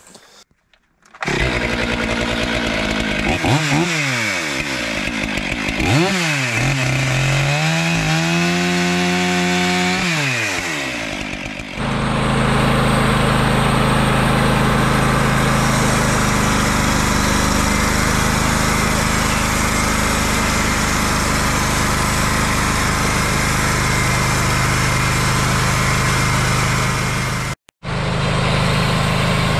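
Gas chainsaw engine running after a short silence, its pitch swinging up and down several times as it is revved and loaded, then settling about twelve seconds in into a steady loud drone with a brief break near the end.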